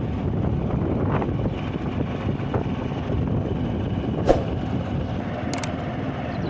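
Tractor diesel engine running steadily, a dense low rumble, with a few short clicks over it.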